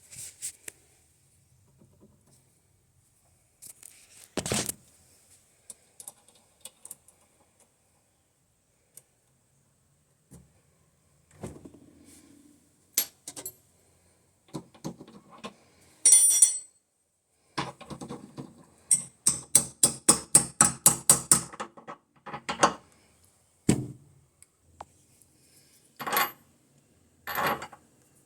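Metal tools and parts clinking and knocking, with scattered single clicks and a quick run of about six or seven taps a second lasting roughly four seconds past the middle.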